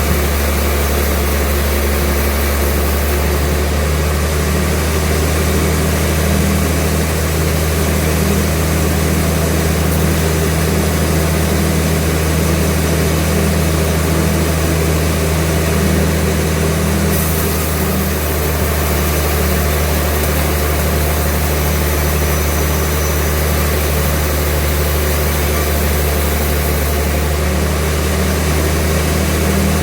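Sawmill machinery running with a steady, unbroken low engine-like drone.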